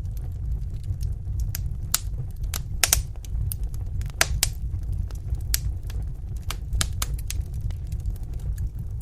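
Wood fire in a fireplace crackling: irregular sharp pops and snaps over a steady low rumble of the flames, with a couple of louder pops about three and four seconds in.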